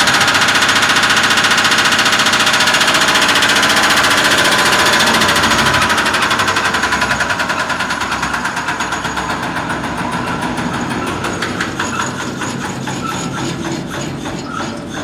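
Corken Coro-Fuel CNG compressor turned by its 60 HP electric motor, on a supply without enough power to run it properly, running with a rapid rhythmic pulse. Over the second half it slows and fades as it coasts down.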